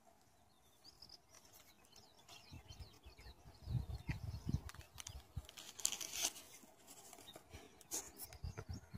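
Faint, intermittent rustling and crunching of dry nest material being handled, starting a few seconds in, with a few faint high bird chirps.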